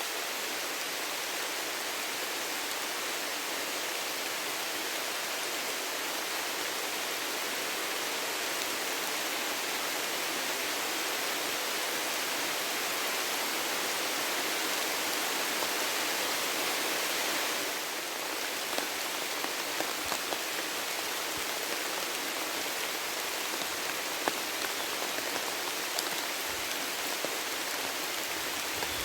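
Rain falling in a steady hiss. About 18 seconds in it eases slightly and single drops start to tick distinctly.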